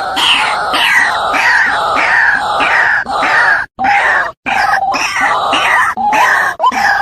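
White-breasted waterhen calling: a fast string of harsh, repeated notes, about two a second, broken by two short gaps near the middle, in a recording offered as a lure call that draws waterhens in.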